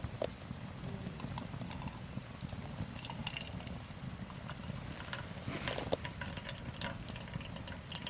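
Wood campfire crackling, with scattered sharp pops and ticks over a low steady rumble.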